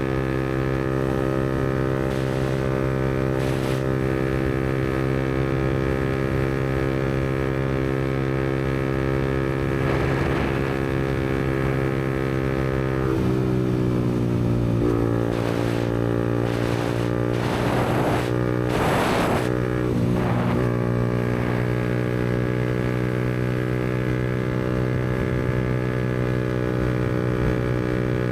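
Yamaha MT-125's single-cylinder four-stroke engine running steadily through an aftermarket Black Widow exhaust while riding. A little after halfway the engine note dips and then climbs back. A few short rushes of noise come about two-thirds of the way in.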